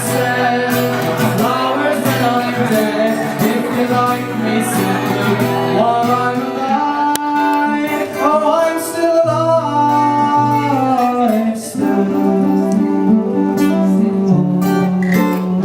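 Acoustic guitar being played in a live song, with a voice singing over it.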